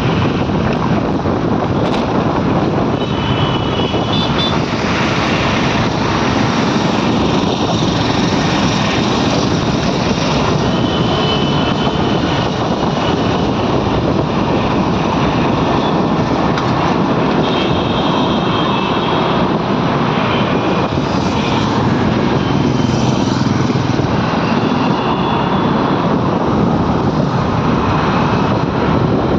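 A vehicle on the move: steady engine and road noise, with wind rushing over the microphone.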